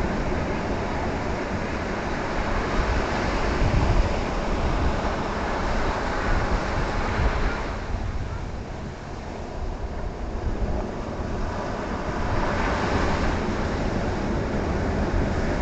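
Ocean surf breaking and washing up the shore, swelling and easing in surges, with wind rumbling on the microphone.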